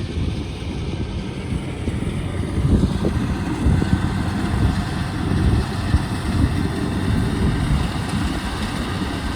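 Kubota DC-73 combine harvester running steadily with a dense, fluttering low rumble.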